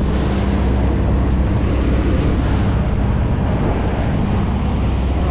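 Passenger boat under way: its engine drones steadily and low, with water rushing past and wind buffeting the microphone.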